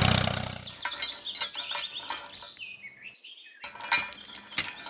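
Small birds chirping in short high notes, some stepping down in pitch. A steady engine-like sound dies away in the first second, and a few sharp clicks come near the end.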